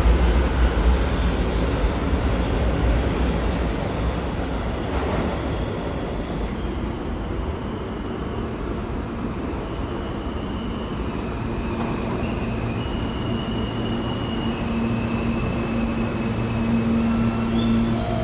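New York City subway train in an underground station: a loud rumble that eases over the first few seconds, then steady hums and high tones that step up and down in pitch, growing louder again near the end.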